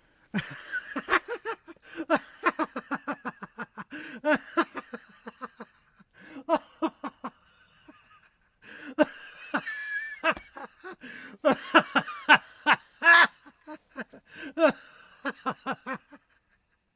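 A person laughing in several bouts of quick, breathy pulses, with short pauses between bouts.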